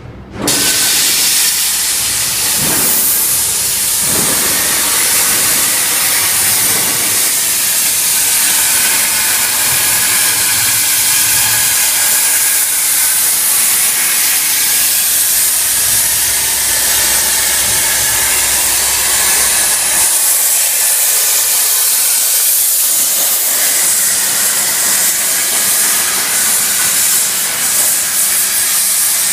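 CNC plasma cutting torch cutting: a loud, steady hiss that starts abruptly about half a second in. The low rumble beneath it drops away about two-thirds of the way through.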